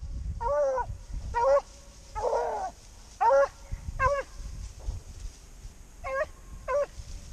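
Beagle baying in a run of about seven short calls, the one a little past two seconds in longer and rougher than the rest.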